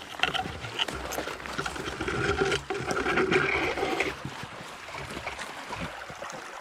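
Small spring-fed mountain creek running and trickling, louder for the first few seconds and then easing off.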